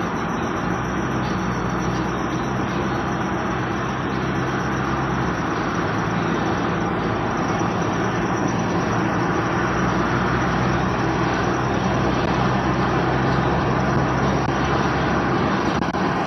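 Audi A4 B7 running: a steady vehicle drone, a low engine hum under an even rushing noise.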